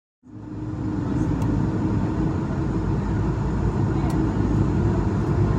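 Cabin noise inside an Airbus A220-300 with its Pratt & Whitney PW1521G geared turbofans running: a steady low rumble with a constant hum tone over it, fading in during the first second.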